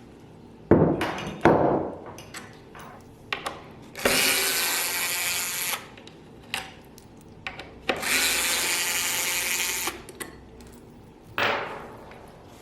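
A power tool run in two bursts of about two seconds each, with a steady hiss. There are two sharp knocks before it, and another knock near the end.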